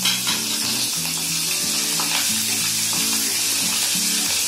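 Green chillies frying with mustard seeds, dals and curry leaves in hot ghee and oil in a kadai, sizzling steadily while a wooden spatula stirs and scrapes the pan with short ticks.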